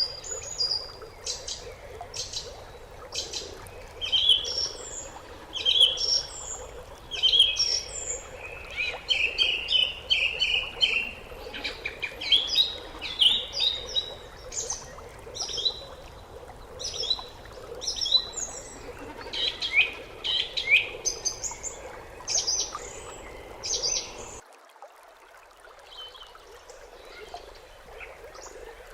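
Small birds chirping and singing: many short, quick calls and trills, densely overlapping, over a steady background hiss. About 24 seconds in, the sound cuts abruptly to a quieter scene with only a few faint calls.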